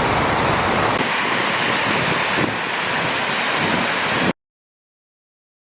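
Steady rushing outdoor noise with wind buffeting the microphone, cutting off abruptly to silence about four seconds in.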